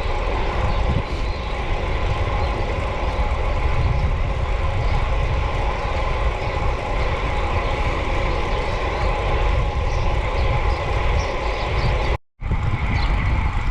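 Wind buffeting the microphone of a camera on a moving bicycle: a loud, unsteady low rumble, broken by a split-second silent dropout near the end.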